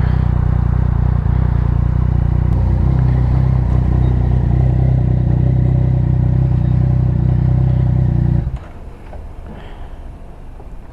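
Motorcycle engine running steadily, then cutting off abruptly about eight and a half seconds in, as when the bike is switched off at a fuel stop.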